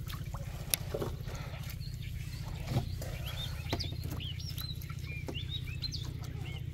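Birds chirping in a quick run of short calls that rise and fall, from about three seconds in, over a steady low motor hum. A few light knocks sound as the gill net is handled at the boat's side.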